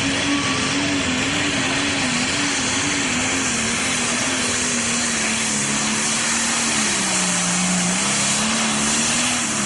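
Pro Stock pulling tractor's turbocharged diesel engine at full throttle under the load of the pulling sled, loud and steady. Its pitch wavers and sags for about a second around seven seconds in, then comes back up.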